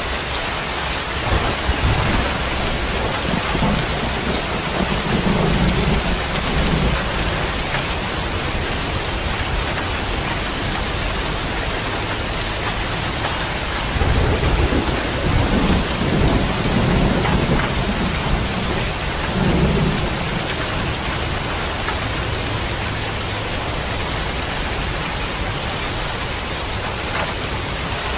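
Steady rain falling, with low rolls of thunder: one spell a second or two in lasting several seconds, and another from about halfway in lasting about six seconds.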